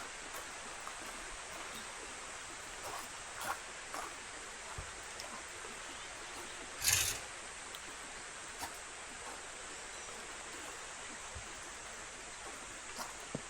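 Steady rain hiss with scattered small knocks and clicks, and one louder brief rustle about seven seconds in.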